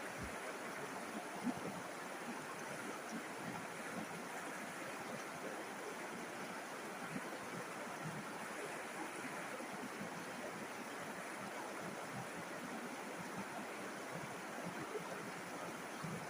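River water running: a steady rush of flowing water, with a few brief, slightly louder moments.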